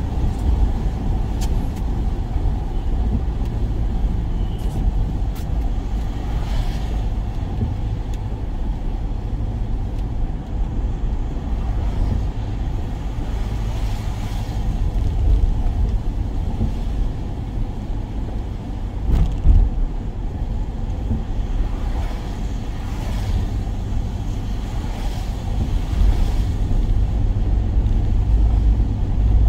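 Steady low rumble of a work van on the move, engine and road noise inside the cab, with a brief louder swell about two-thirds of the way through.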